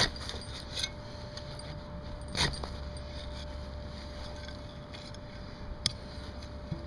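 Digging into the ground at a metal detector target: a few scattered short cuts and knocks of the digging tool, the loudest about two and a half seconds in, over a steady low rumble.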